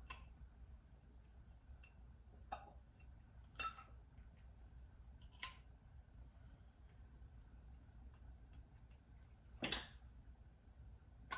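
A few scattered light clicks of new metal canning lids being set onto the rims of filled glass jars, with near silence between them.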